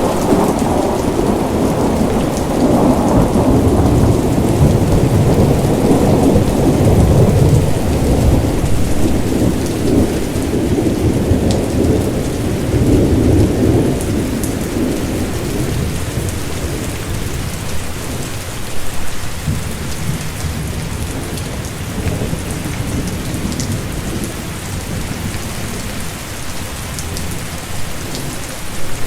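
Steady rain falling, with a long low roll of thunder that builds over the first half and dies away after about fourteen seconds.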